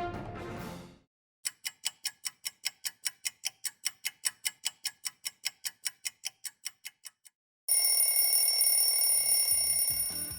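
Clock ticking evenly at about four ticks a second, fading out, then an alarm clock bell ringing loudly for about two and a half seconds.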